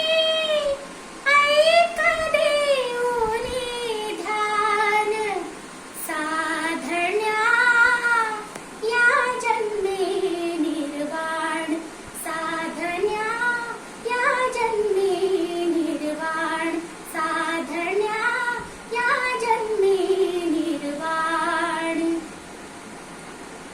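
A young girl singing a Marathi Buddhist devotional song unaccompanied, in a high voice with long sliding, mostly falling phrases and short breaths between them; she stops about a second before the end.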